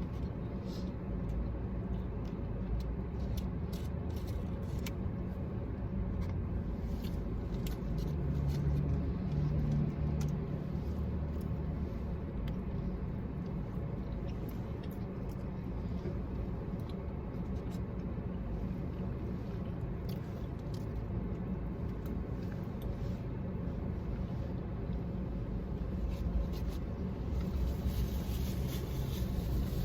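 Steady low rumble of a car's engine heard from inside the cabin, with scattered small clicks and rustles of eating and handling food.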